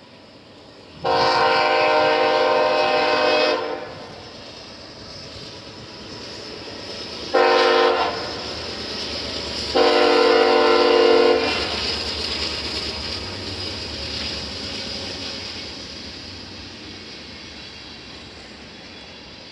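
Diesel freight locomotive's air horn sounding three blasts, long, short, long, over the rumble of the passing train, which then slowly fades.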